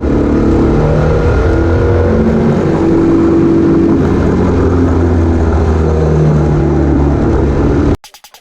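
SWM Superdual X's single-cylinder engine running on the move, its pitch rising and falling as the revs change, then cut off abruptly near the end.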